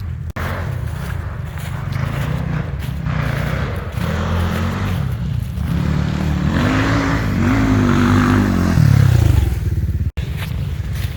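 Enduro motorcycle engine revving, its pitch rising and falling several times and loudest about three-quarters of the way through before it drops back.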